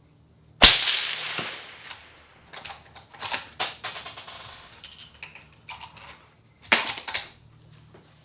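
Suppressed .243 Winchester bolt-action rifle (Savage 110 action, home-built suppressor) firing a shot about half a second in, the crack trailing off in an echo; then a run of clicks and clacks as the bolt is worked, and a second, quieter crack near the end.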